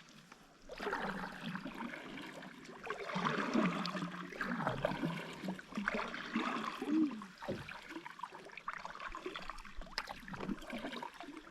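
Kayak paddling on calm water: paddle blades dipping and pulling, with splashing and water dripping and trickling off the blades.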